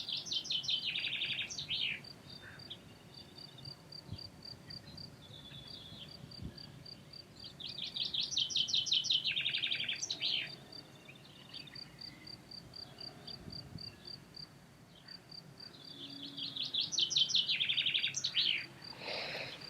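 A songbird singing three times, each phrase a quick run of high notes ending in a trill, over a steady high chirp repeating about four times a second.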